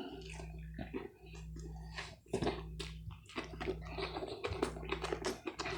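Close-miked chewing: irregular wet mouth clicks and smacks, over a low steady hum.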